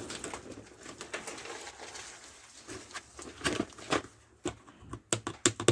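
Handling noise from a boxed car vacuum being unpacked: a low rustle, then a run of sharp clicks and knocks starting about three and a half seconds in.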